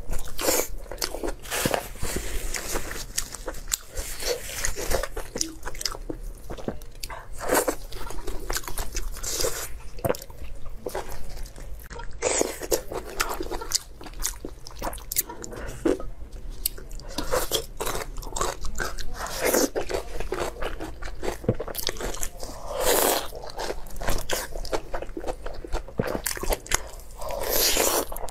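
Close-miked biting, tearing and chewing of sticky braised pork intestines, with wet smacks and irregular clicks.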